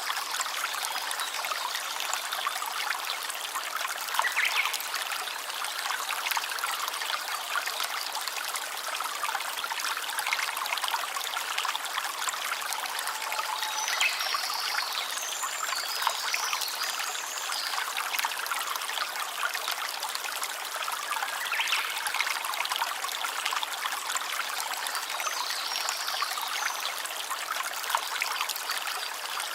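Small stream trickling steadily, with a few brief higher-pitched sounds over the water about halfway through and again near the end.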